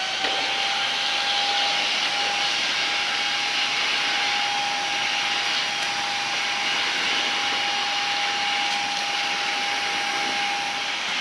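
Samsung VS20T7532T1 cordless stick vacuum running with its crevice nozzle: a steady, high motor whine over a rush of sucked air. Near the end the whine fades while the air rush carries on.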